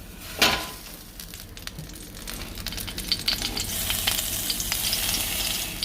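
Hot crispy chicken crackling and sizzling, a dense fine crackle that grows louder over the last few seconds and stops suddenly.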